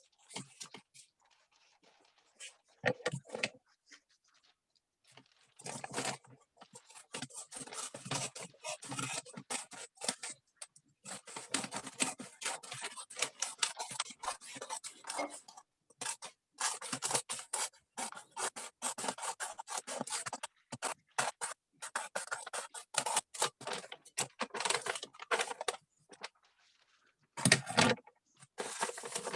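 Wrapping paper being cut and handled: irregular rustling and crackling strokes in clusters with short pauses, busiest through the middle.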